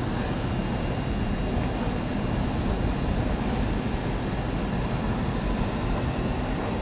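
London Underground train pulling out of the station: a steady rumble.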